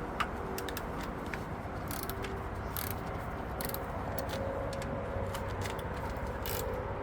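Metal hand tools clicking and clinking on engine parts: irregular light clicks over a steady background hum.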